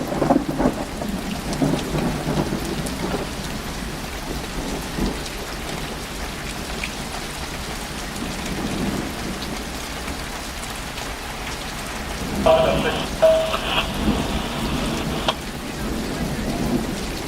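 Heavy rain falling steadily in a thunderstorm, a continuous hiss of rain hitting surfaces.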